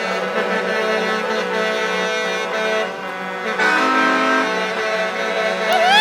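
Brass music playing held chords that change every second or so, with a short pitch that slides up and back down near the end.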